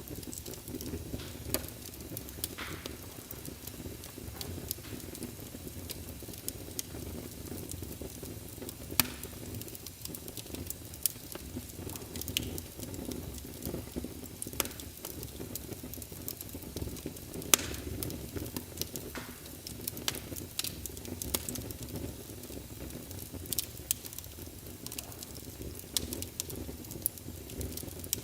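Wood logs burning in a fireplace: a steady low rumble of flames under frequent, irregular crackles and sharp pops, a few pops much louder than the rest.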